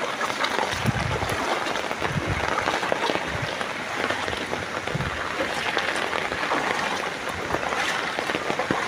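Steady heavy rain falling on floodwater and hard surfaces, a dense patter of drops, with a few brief low bumps.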